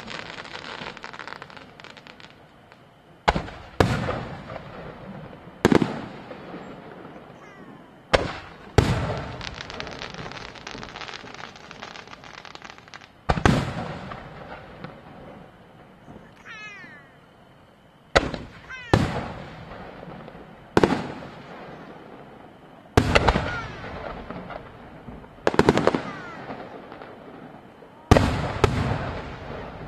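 Aerial firework shells bursting one after another, about a dozen sharp booms every two seconds or so, some in quick pairs. Each boom trails off in a long rolling echo.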